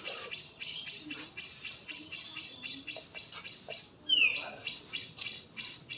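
Songbird calls: a quick, steady series of high chirps, about four a second, with one loud falling whistle about four seconds in.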